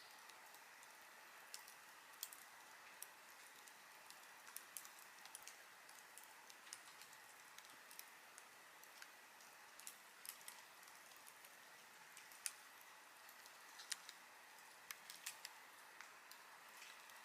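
Wood campfire crackling softly: a low steady hiss of burning with irregular sharp pops and snaps scattered throughout, two of them louder about two thirds of the way in.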